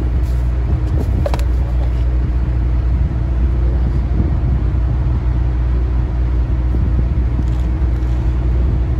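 Steady low, even hum of an engine running, with a single light click about a second and a half in.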